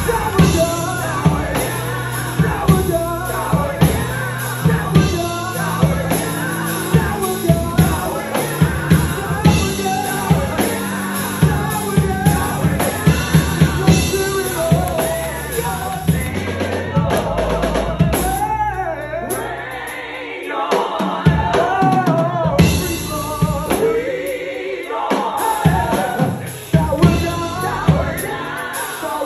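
Live gospel song: a singer's melody over a band with a prominent drum kit and sustained low bass notes. The drums and bass drop out briefly past the middle, then come back.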